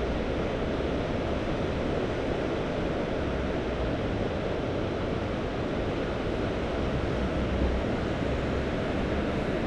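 Mediterranean sea waves washing steadily, with no single breaking crash standing out, over a low, fluttering wind rumble on the microphone.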